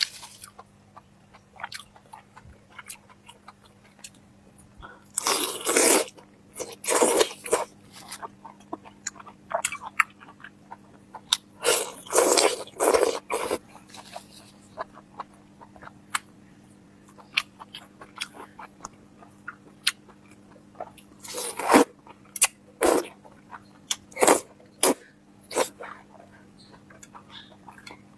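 A person eating close to the microphone: loud crunching bites every few seconds, with small wet mouth clicks in between. A faint steady hum runs underneath.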